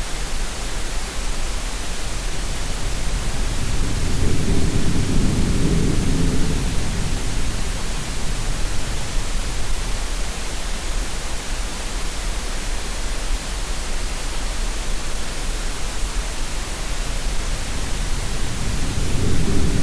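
Green noise with sea sounds: a steady, even hiss, with a low swell like a wave washing in about four seconds in and another near the end.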